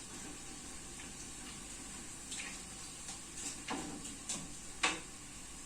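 Liquid bubbling in a pot on the stove: a few separate watery plops over a faint steady hiss.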